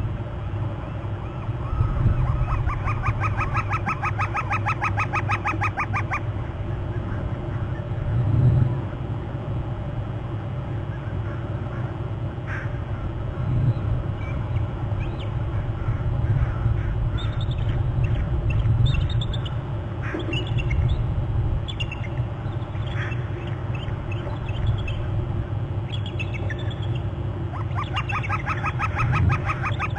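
Bald eagles calling in series of rapid, high, chattering notes, one run from about two to six seconds in and another starting near the end, with fainter chirps between them. Steady low wind rumble on the microphone underneath.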